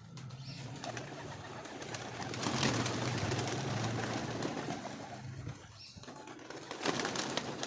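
Domestic pigeons cooing, with louder noisy stretches of flapping wings in the middle and again near the end.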